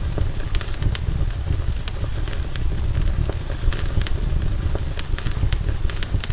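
Campfire burning, with frequent sharp crackles and pops of burning wood over a steady low rumble.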